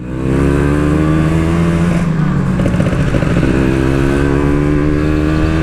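Yamaha RX-King's 135cc two-stroke single-cylinder engine pulling under way. The pitch rises steadily, drops with an upshift about two seconds in, then climbs again.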